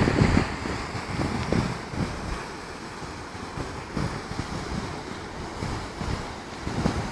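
Wind gusting on the microphone in uneven low rumbles over a steady rushing background, strongest in the first second.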